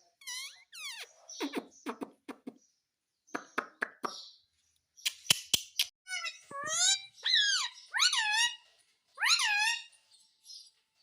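Pet parrot calling: a run of short high whistles, chirps and squawks, many rising then falling in pitch, with a few sharp clicks about five seconds in.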